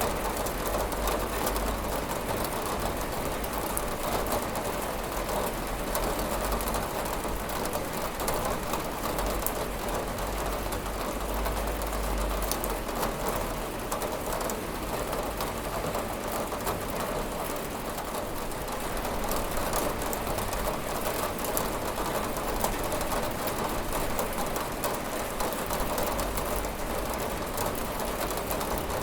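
Steady rain falling and pattering on a window, a dense even hiss with many fine drop taps.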